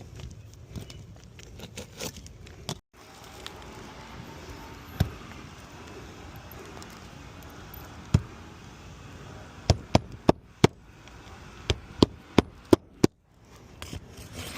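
Sharp knocks over a faint steady background: single ones about 5 and 8 seconds in, then two quick runs of four and five knocks near the end.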